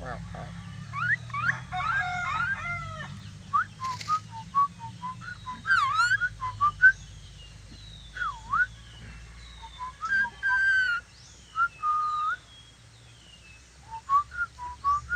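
Lory (nuri parrot) whistling a varied string of short whistled notes, some swooping up or down and a few held steady, with a quick warbling run and faint high chirps in between.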